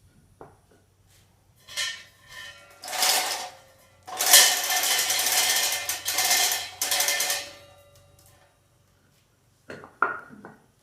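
Metal clanking and scraping with a metallic ringing: a few short clanks, then about three and a half seconds of continuous rattling in the middle, and two more clanks near the end.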